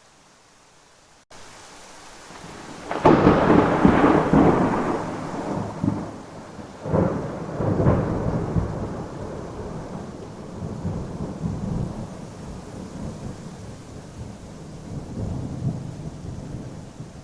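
Thunderstorm with steady rain. The rain comes in abruptly about a second in, and a loud thunderclap a couple of seconds later rumbles on for several seconds. Two more cracks follow a few seconds after that, with a smaller rumble swelling near the end.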